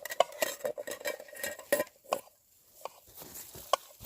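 Metal utensil clinking and scraping against a cooking pot or pan, quick and busy for about two seconds, then a few single clinks.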